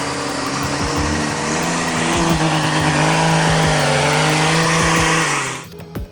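Heavy truck engine running under load over a dense rushing noise, its pitch rising slightly about two seconds in. The sound cuts off suddenly near the end.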